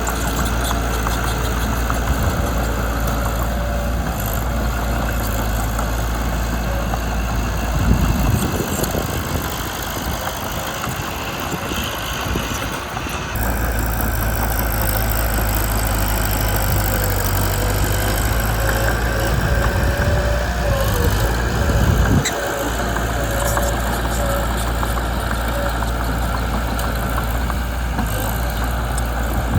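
Diesel engine of a Mitsubishi BD2 bulldozer running steadily at work. Its low engine note weakens for a few seconds near the middle, and there is a brief knock about 22 seconds in.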